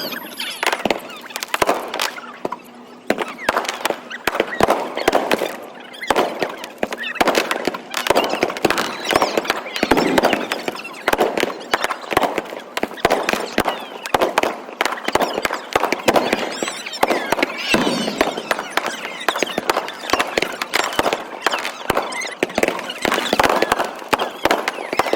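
Fireworks display: a continuous barrage of sharp bangs and crackling bursts, several a second.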